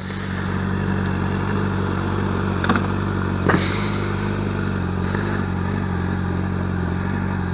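Sportbike engine running steadily at low revs, its pitch holding constant, with two brief clicks near the middle.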